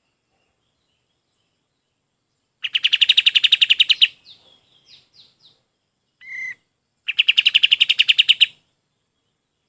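Kapas tembak songbird singing: two loud, rapid trills of evenly repeated notes, each about a second and a half long, with a few soft short notes and one brief call in the pause between them.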